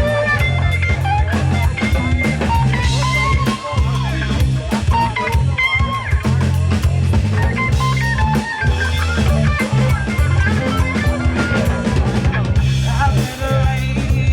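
Live rock band playing an instrumental passage: guitar lines over bass and drum kit, with no singing.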